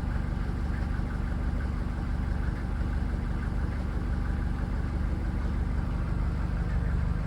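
Mercedes-Benz 307D van's four-cylinder diesel engine idling steadily, warming up after a cold start made without choke.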